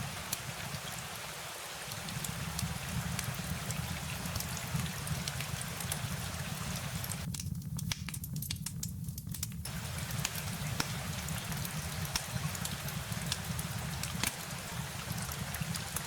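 Steady rain with scattered sharp drop ticks over a low rumble. The hiss of the rain drops out for about two seconds midway, while the rumble carries on.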